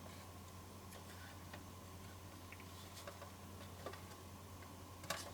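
Faint, scattered clicks and light knocks of small parts being handled, about six in all, with the sharpest near the end, over a steady low electrical hum.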